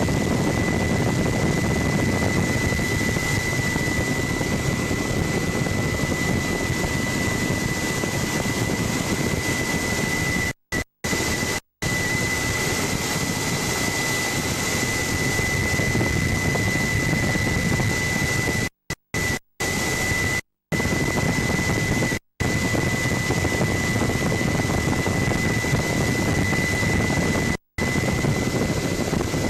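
Helicopter engine and rotor noise heard from on board: a dense, steady roar with a constant high-pitched whine. The sound drops out completely for split seconds several times in the middle and later part, recording dropouts rather than changes in the helicopter.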